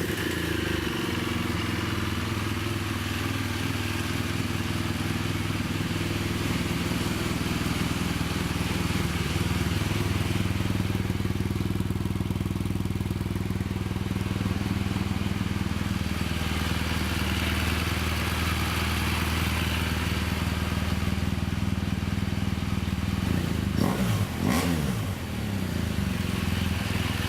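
2016 BMW R1200GS Adventure's 1200cc boxer twin idling steadily, with a short rev that rises and falls back near the end.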